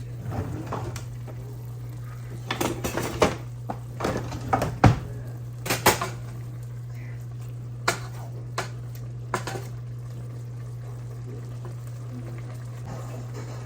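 Metal kitchen utensils clinking and knocking against pots and pans: a flurry of clatter from about two and a half to six seconds in, then a few single clinks, over a steady low hum.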